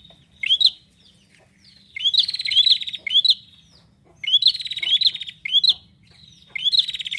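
Prinia (prenjak) singing loudly in repeated phrases, each a fast buzzy trill with sharp upward-slurred notes, about three phrases in this stretch.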